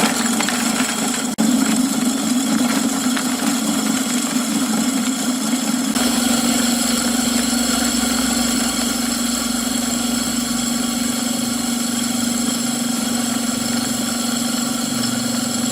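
Homemade feed grinder driven by a recycled washing machine motor, running continuously with a steady hum and a rougher, busier sound in the first few seconds before it settles.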